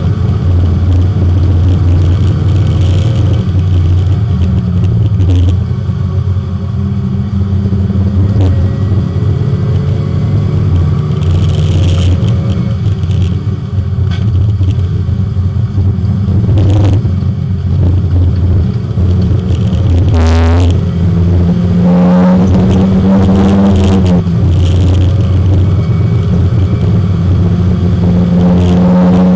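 Porsche 924 race car's four-cylinder engine, heard from inside the car while it laps the circuit, its note rising and falling with throttle and gear changes. Its pitch dips sharply and climbs again about twenty seconds in.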